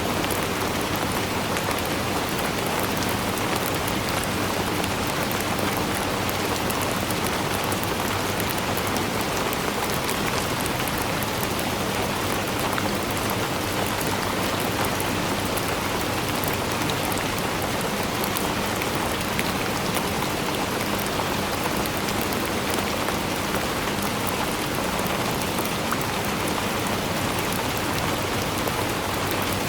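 Steady rainfall, with many small drops pattering on surfaces at an even, unchanging intensity.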